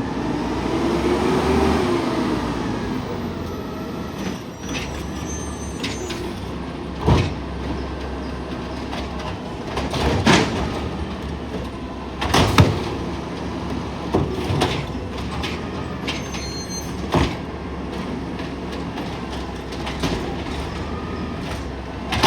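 Garbage truck running with a steady engine hum and a whine that rises and falls over the first couple of seconds, followed by about five sharp clanks spaced a few seconds apart.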